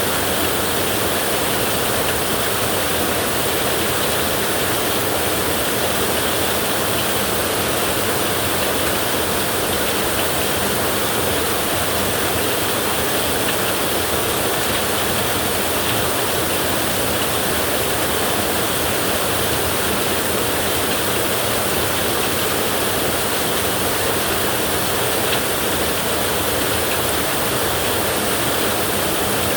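Heavy rain falling on a tin roof, a steady dense hiss that holds an even level throughout.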